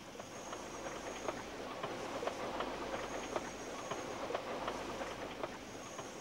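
A train rolling along the track, its wheels clattering with irregular sharp clicks over the rails. It swells in the first second and eases off near the end.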